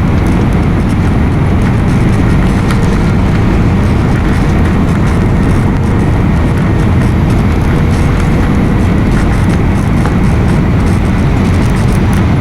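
Airliner cabin noise during landing: a loud, steady deep rumble of engines and airflow heard from inside the passenger cabin, with a faint steady hum above it.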